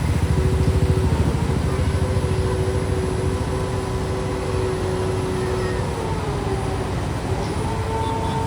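A vehicle running with a heavy low rumble and a steady motor whine. The whine drops in pitch about six seconds in and rises again just after seven seconds, as the speed changes.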